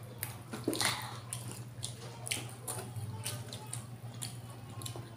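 Wet chewing and lip-smacking of people eating with their hands: a scatter of short, irregular smacks and clicks over a steady low hum.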